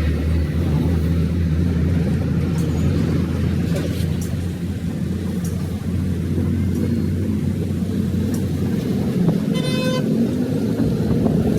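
A vehicle engine runs steadily with a low hum, among other traffic noise. A car horn honks once, briefly, about nine and a half seconds in.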